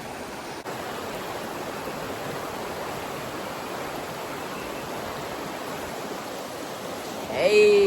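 Steady rush of flowing water from a creek and waterfall.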